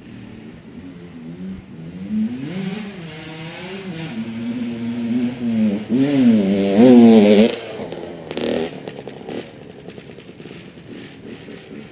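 Small dirt bike engine revving up and down, its pitch rising and falling in repeated swells, loudest about seven seconds in. A brief rattle follows about a second later.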